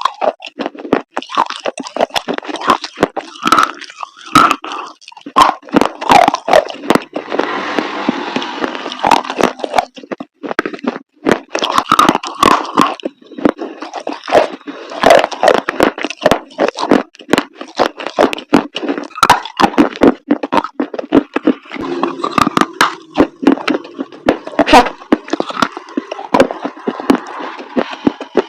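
Chalk pieces coated in thick paste being crunched and crushed, giving a dense, irregular run of sharp cracks and crackles, with a stretch of scraping about eight seconds in.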